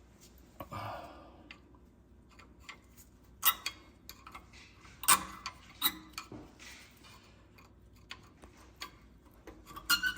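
Scattered sharp metallic clicks and clinks of rear brake caliper parts and slide pins being handled and set down during a brake pad change, two of them louder, with a brief rustle near the start.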